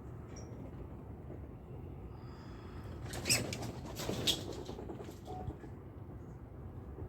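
A small bird giving a few short, high chip notes and one thin drawn-out high note, with a burst of crackling rustle about three seconds in that peaks twice.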